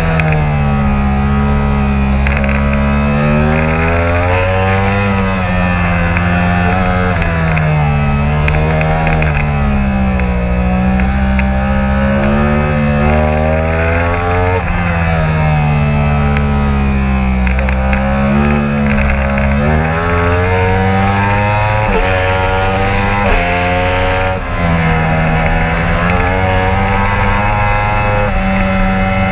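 Yamaha R1 sport bike's inline-four engine at high revs on the track, its pitch repeatedly climbing under throttle and dropping back through gear changes and braking. A steady low wind rumble on the helmet-side microphone runs underneath.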